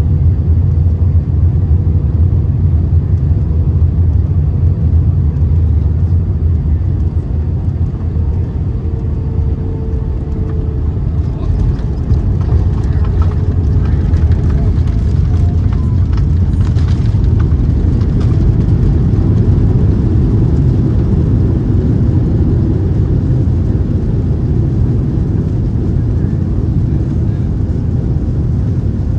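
Steady low rumble of a United Airlines Airbus A319 heard from inside its passenger cabin during landing, from the engines and the air or runway. A little extra higher rattle and hiss joins in the middle.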